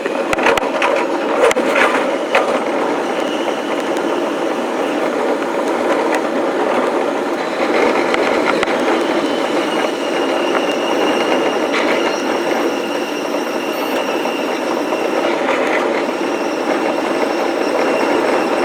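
Electric commuter train running along the line: a steady rumble of wheels on rail, with a quick run of clacks in the first couple of seconds and a faint high whine later on.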